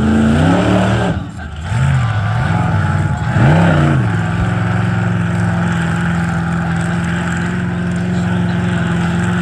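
Monster truck engine revving hard in four rising and falling surges over the first four seconds, with a brief drop off the throttle about a second in, then held at a steady high rev.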